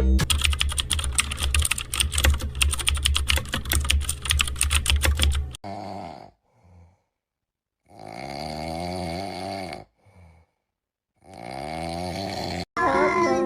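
Fast, clattering computer-keyboard typing for about five and a half seconds, then silence broken by snoring: a short snore followed by two long drawn-out ones.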